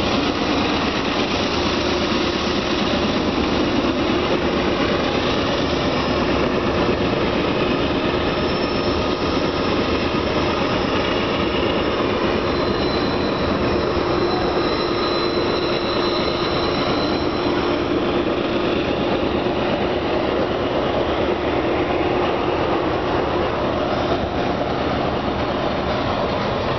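Loaded covered hopper cars of a long freight train rolling past, a steady rumble of steel wheels on rail. A thin, high wheel squeal rises out of it for a few seconds around the middle.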